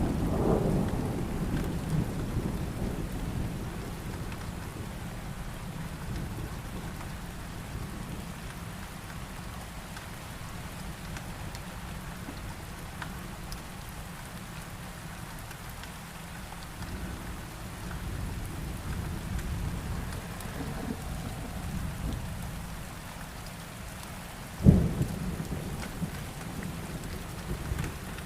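Thunderstorm: steady rain falling, with low rolling thunder fading away over the first few seconds and a sharp crack of thunder near the end.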